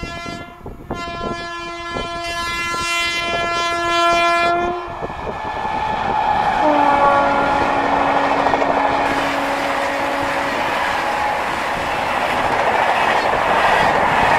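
Himgiri Express locomotive sounding its horn as it approaches: a short blast, then a long one. After a brief break a lower-pitched blast follows as the locomotive passes. The rush and clatter of the coaches rolling by builds through the second half.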